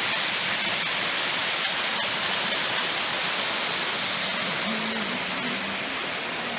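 Steady rush of flowing water, a dense even hiss that eases slightly near the end.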